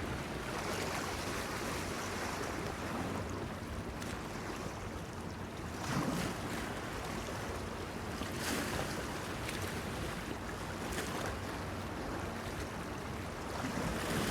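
Sea waves washing against a breakwater pier, with light wind. A few louder splashes come about six, eight and a half and eleven seconds in.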